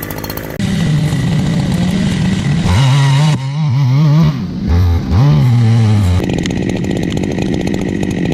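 Chainsaw engine running hard under load while cutting, its pitch wavering and dipping twice in the middle as it bogs in the wood. The sound changes abruptly about half a second in and again near the end.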